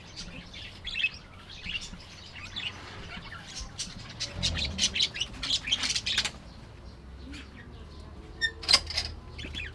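Budgerigars chirping and chattering in an aviary: many short, high calls, busiest in the middle and again near the end.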